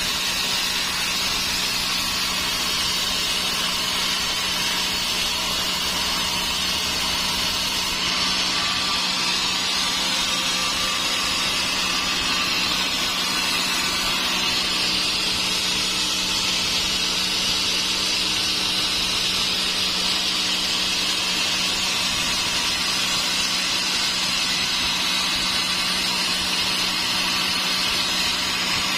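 Sawmill saw running steadily: a constant low hum under an even, high-pitched hiss that does not let up.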